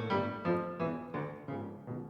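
Background piano music: a series of single struck notes, each ringing and fading, about three a second.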